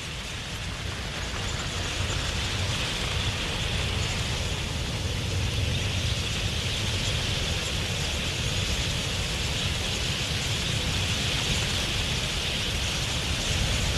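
Huge flock of wild budgerigars in flight, their massed wingbeats and calls merging into one steady rushing noise that swells a little in the first couple of seconds.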